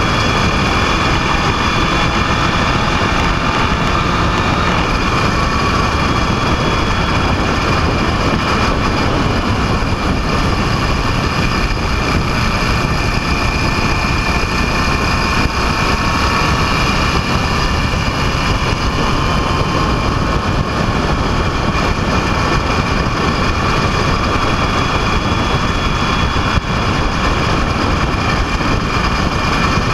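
Motorcycle engine running at a steady speed under way, mixed with a constant rush of wind and road noise; its tone drifts only slightly.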